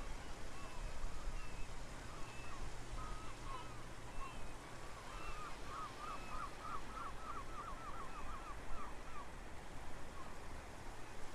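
Small birds chirping, with a quick run of about ten notes near the middle, over a steady low background hum.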